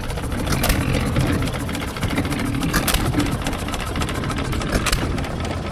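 Small stationary farm engine running steadily with a low rumble, with a few sharp clicks.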